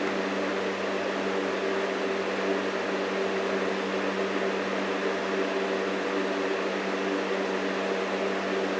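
A steady mechanical hum made of several unchanging low tones over a hiss, running without a break or change.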